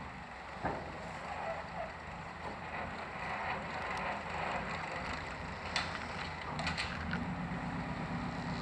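High-speed passenger boat's engine running, with a few sharp clanks and creaks; the engine note strengthens about six and a half seconds in as the boat gets under way.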